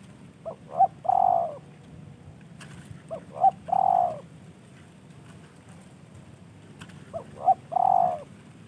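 Spotted dove (tekukur) cooing: three song phrases a few seconds apart, each two or three short notes followed by a longer rolling coo.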